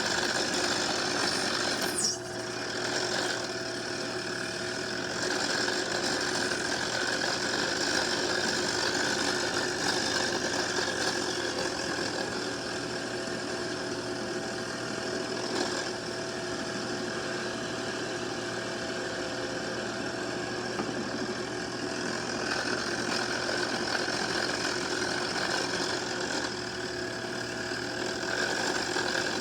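Small lathe running steadily while turning a part, with a faint whine that comes and goes and a brief click and dip in level about two seconds in.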